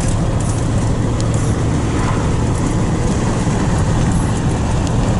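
A truck on the move: steady engine drone with a low hum and road noise.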